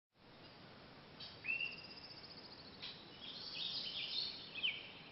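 Songbirds singing: a fast trill and a clear whistled note about a second in, then a run of short chirps and downward-slurred notes from several birds.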